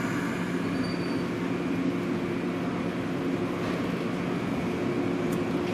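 Izukyu 2100 series electric train standing at the platform, its onboard equipment giving a steady, even hum. A brief click sounds about five seconds in.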